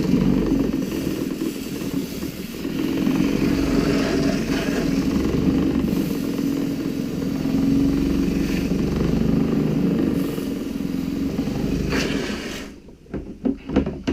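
Storch Tornado roller cleaner running on hose water pressure, spinning a paint roller to wash it, a loud steady whir with water spray. It cuts off suddenly near the end, followed by a few knocks.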